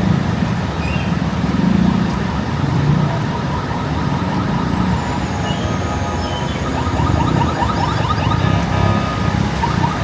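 Street traffic: vehicle engines running steadily. About two-thirds of the way through, a rapid warbling tone joins in.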